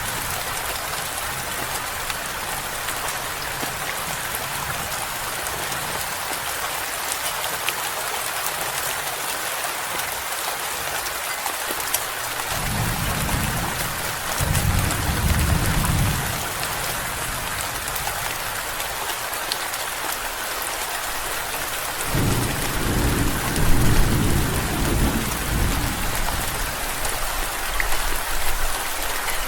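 Steady rain falling, with two low rolls of thunder: one about halfway through, lasting a few seconds, and a longer one near the end.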